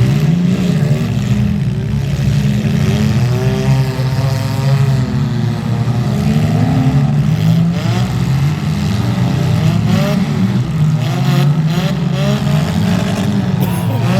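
Several demolition derby cars' engines running at once, revving up and down over and over.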